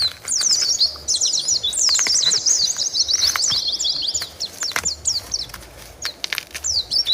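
Birds chirping, a dense run of quick, high twittering notes that thins out about two-thirds of the way through, with a few faint clicks.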